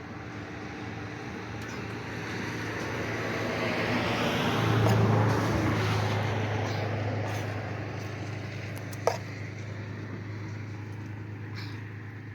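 A vehicle passing by, its rushing sound swelling to a peak about five seconds in and then fading away. A steady low hum starts about midway and carries on, and there is a single sharp click near the end.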